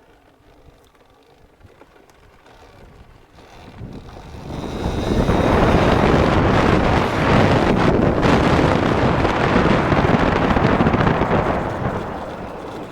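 Wind rushing over the microphone as a dirt bike takes off hard, building about four seconds in, staying loud for several seconds, then easing off near the end.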